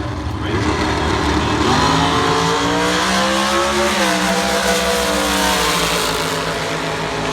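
Drag race car's engine under power, its pitch climbing for a couple of seconds, then dropping sharply about four seconds in and falling away.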